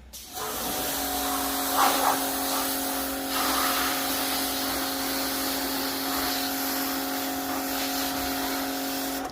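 Wilks USA RX 550i electric pressure washer running, with a steady motor and pump whine over a hiss of spray. It starts suddenly and cuts off suddenly near the end.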